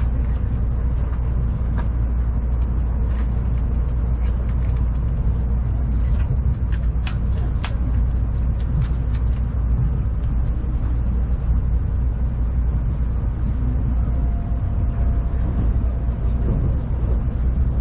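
Interior running noise of a Tokaido Shinkansen train: a steady low rumble from the moving train, with scattered sharp clicks and ticks that cluster about halfway through.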